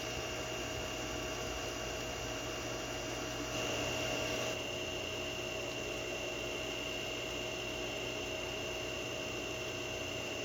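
Swimming-pool pump motor running steadily: a constant hum with a thin high whine over it.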